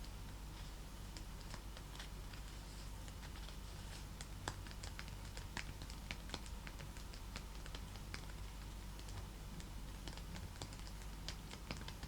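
Fingernails tapping and clicking on a snake-leather purse: quick, irregular light taps, a few each second.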